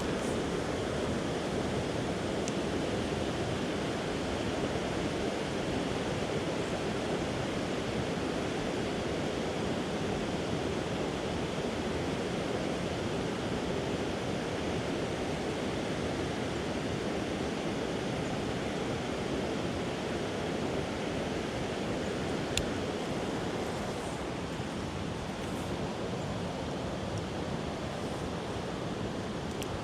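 Steady rushing of creek water, an even noise that holds without a break, with one sharp click about two-thirds of the way through.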